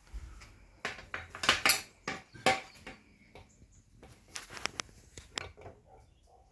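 Metal clanking and clinking as the steel chain case, bracket and welding gear are handled and set in position: two clusters of sharp knocks, one early and one in the second half.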